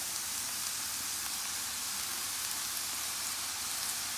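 Freshly chopped chowri bhagi (callaloo greens) sizzling steadily in hot oil in a frying pan, just added on top of sautéed onion, garlic and pepper.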